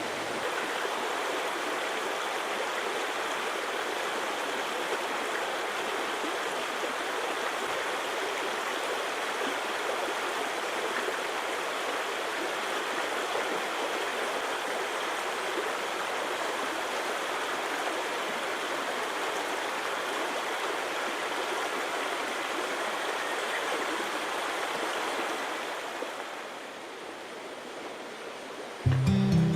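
Steady rush of flowing water that fades out about three seconds before the end.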